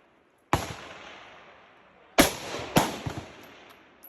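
Three precision rifle shots, the first about half a second in and the other two about half a second apart near the middle, each followed by a long rolling echo. A couple of fainter cracks follow the third shot.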